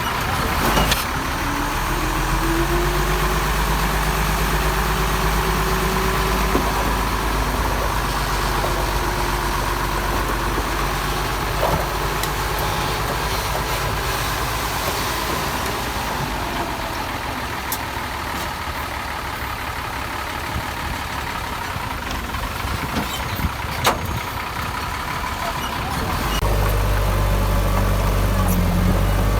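Heavy diesel earthmoving machinery running steadily, with a few sharp metallic clanks. The engine note grows heavier and louder near the end.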